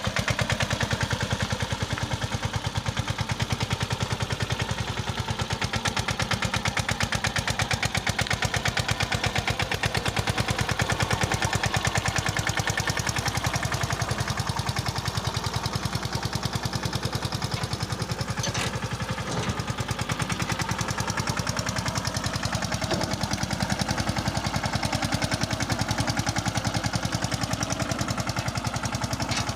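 Mahindra Yuvraj 215 tractor's single-cylinder diesel engine running, a rapid, even train of firing knocks that holds steady throughout.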